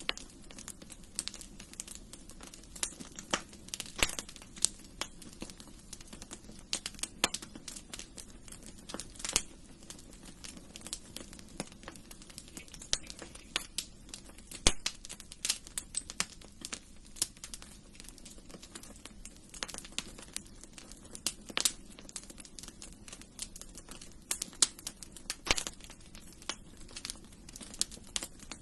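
Wood fire crackling in a fireplace: a steady low hiss of burning with irregular sharp pops and snaps, several a second.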